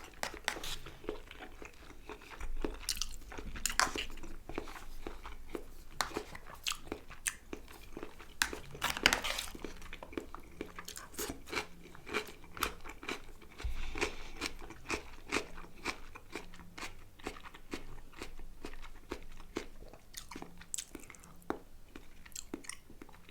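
Close-up chewing and crunching of food, a run of irregular crisp crackles and bites, typical of eating a fresh salad.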